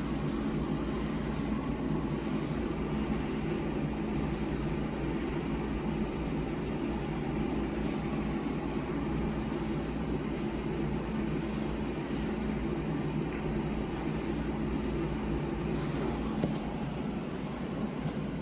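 Steady mechanical drone with a faint constant hum, unchanging and with no distinct knocks or rustles.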